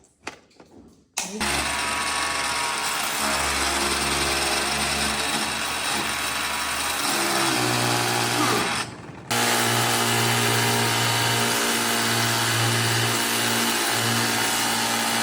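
Battery-powered pressure washer running: its motor and pump hum under a steady spray hiss. It starts abruptly about a second in, cuts out briefly near nine seconds, then starts again.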